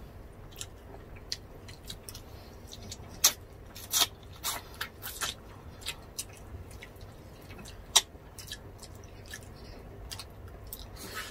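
Close-miked eating: mouth smacks, chewing and wet clicks as roast chicken is eaten by hand, with scattered sharp clicks, the loudest about eight seconds in.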